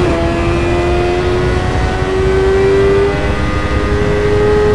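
BMW S 1000 RR superbike's inline-four engine pulling under acceleration, its pitch climbing slowly and steadily, with a heavy rush of wind underneath.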